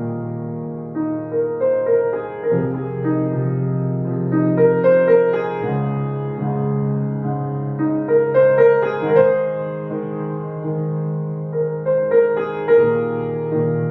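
Piano music: a slow melody played over sustained low chords, with the harmony changing twice in the first few seconds.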